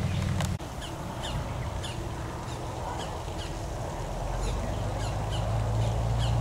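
A bird calling over and over: short, falling chirps repeated roughly every half second, over a low steady rumble.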